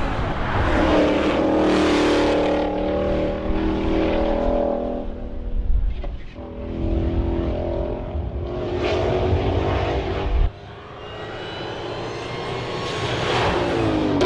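Ford Mustang GTD's supercharged 5.2-litre V8 running hard, its pitch rising and falling as it revs. The sound drops off abruptly about ten and a half seconds in, then builds again and falls in pitch near the end.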